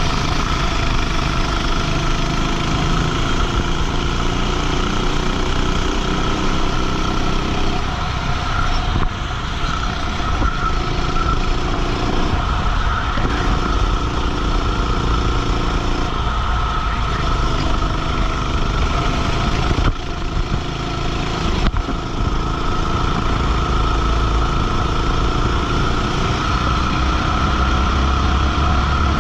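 Racing kart engine running hard through a lap, its pitch rising and falling with the throttle. It dips briefly several times, around eight, twelve and sixteen seconds in, as the throttle is lifted for corners.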